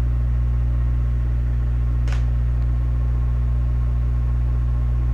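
A steady low hum with an even, unchanging drone, and a faint short tick about two seconds in.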